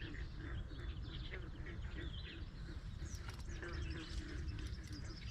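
Birds chirping and calling in many short, repeated notes, with a steady low rumble underneath.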